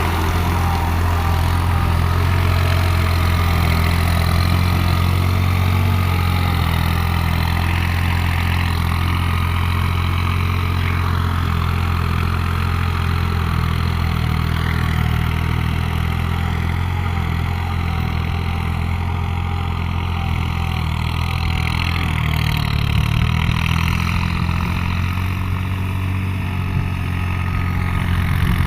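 New Holland TT55 tractor's diesel engine running steadily at low revs, with a slight change in engine speed about three quarters of the way through.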